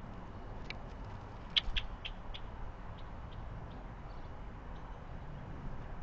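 A small bird giving a quick series of short, sharp chirps, loudest about a second and a half in, then a few fainter ones, over a low steady background rumble.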